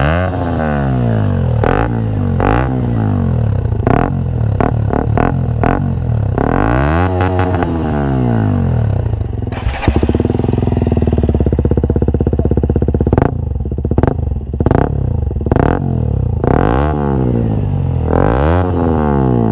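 KTM Duke 125's single-cylinder four-stroke engine revved through a Scorpion stainless-steel exhaust in quick repeated blips, each rising and falling in pitch. About ten seconds in the exhaust is heard without its dB-killer baffle, held at high revs for a few seconds before more blips.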